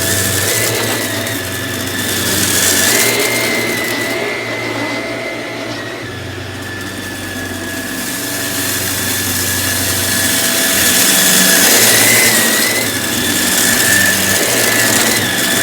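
Samsung CycloneForce SU12F70SA upright vacuum cleaner running, a steady rushing noise with a high motor whine, its loudness rising and falling slowly every few seconds.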